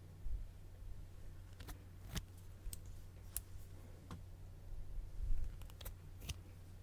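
Scissors snipping close to the microphone for ASMR: sharp, separate snips at an irregular pace, roughly one every half second to second.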